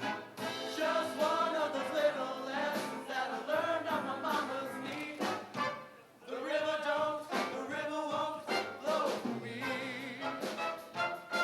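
High school show choir singing in parts with musical backing, with a short break in the sound about six seconds in.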